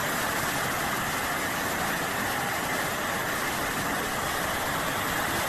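Floodwater rushing fast through a street: a steady, even noise that holds without let-up.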